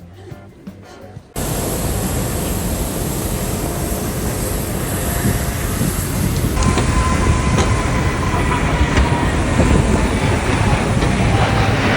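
Steady rumble and rattle of a moving vehicle, cutting in suddenly about a second in and running on loudly.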